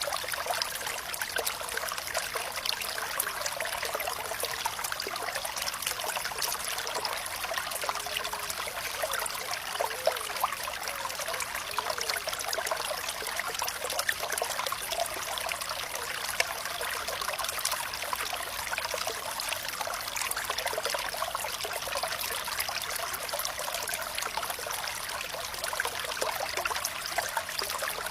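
Water flowing and trickling steadily, a light, splashy sound with no deep rumble, and a few small gurgles about a third of the way in.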